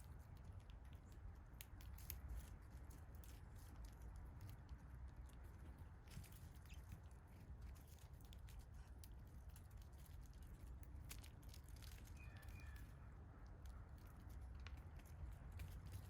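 Faint scattered sharp clicks and taps of small birds pecking at seed, with a brief high chirp about three-quarters of the way through, over a low steady outdoor rumble.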